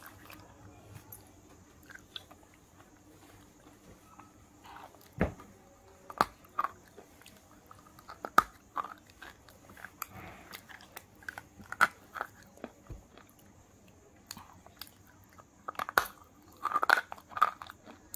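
Close-up biting and chewing of a water-soaked white bar: sharp crunchy bites at intervals with quieter chewing between, and a quick run of crunches near the end.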